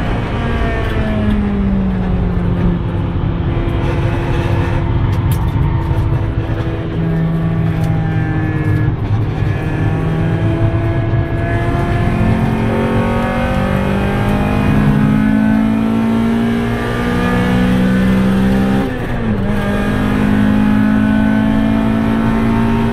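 Car engine heard from inside the cabin, driven hard on a race circuit: its pitch climbs and then drops again and again as it revs up through the gears and slows for corners, over a constant road and wind rumble.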